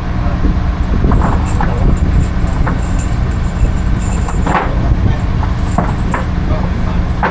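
Fishing boat engine running steadily, a loud low drone, with a few faint short knocks over it.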